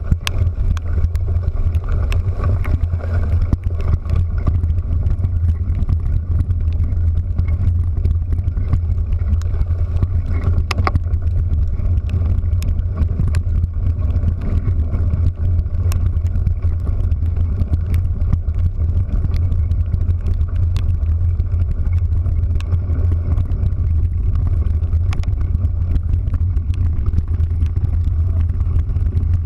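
A road vehicle travelling steadily, with a continuous low drone and scattered sharp clicks throughout.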